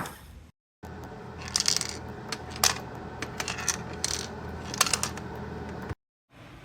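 The motor of a small electric blade coffee grinder cuts off at the start. After a short dead gap, scattered light clicks and clinks of hard parts being handled follow over a low steady hum.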